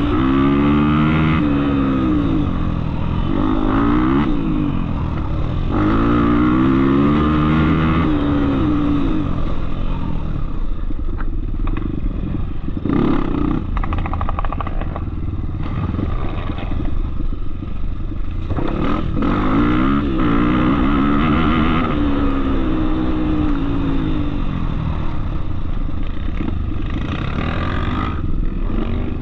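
Off-road motorcycle engine running under load, its pitch rising and falling again and again as the throttle is opened and closed. A rougher stretch of clattering comes through the middle.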